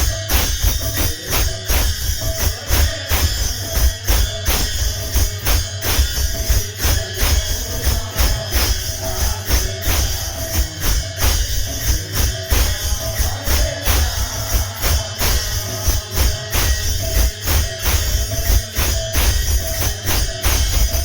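Instrumental kirtan music: fast, steady drum beats with jingling metal percussion striking on the beat, over a held note.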